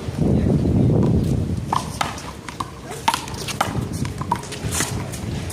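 One-wall handball rally: a run of sharp, irregularly spaced smacks as the small rubber ball is struck by hand, hits the wall and bounces off the pavement, starting a little under two seconds in.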